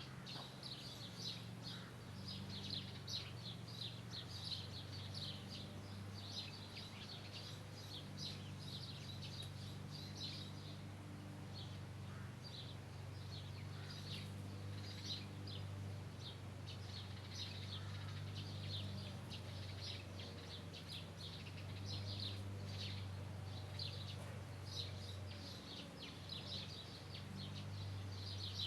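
Many small birds chirping in quick, overlapping calls without a break, over a steady low hum.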